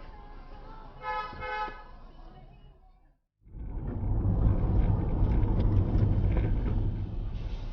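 A car horn sounds briefly about a second in, over quieter traffic. After a short break the sound changes to a loud, steady rumble of a vehicle on the road.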